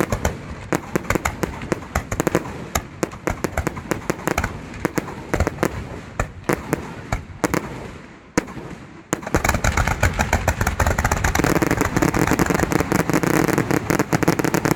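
Fireworks display: a rapid string of sharp bangs and cracks, which about nine seconds in becomes a denser, louder, almost continuous crackle.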